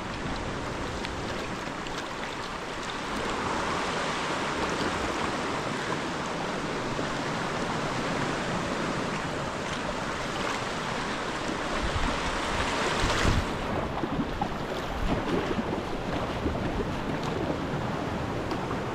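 Sea waves washing and splashing around a sea kayak, with wind buffeting the microphone. It gets louder about two-thirds of the way through.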